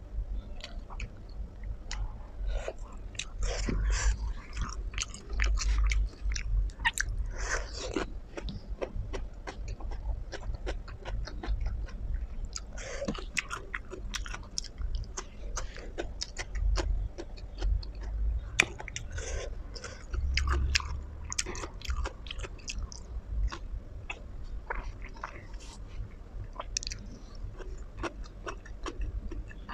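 A person chewing and biting food: a dense run of wet mouth clicks and smacks, with louder crunchy bites now and then.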